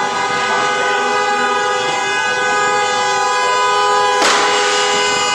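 Vehicle horn sounding nonstop as a steady two-note chord, with no break or change in pitch. A short burst of hissing noise cuts across it about four seconds in.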